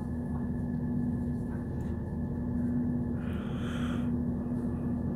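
Steady rumble and hum inside a moving diesel passenger train running along the track, with a brief hiss about three seconds in.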